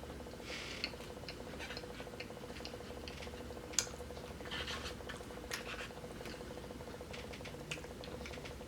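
Faint eating sounds: chewing fried chicken livers and gizzards, with small mouth clicks and crackles and a few sharper ticks, over a steady faint hum.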